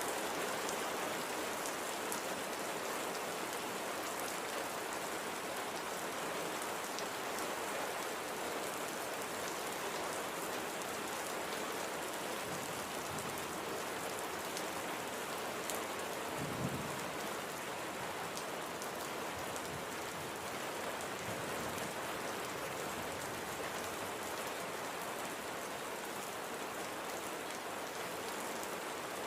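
Steady light rain falling on a surface, with individual drops ticking through the hiss and one soft low thump about halfway through.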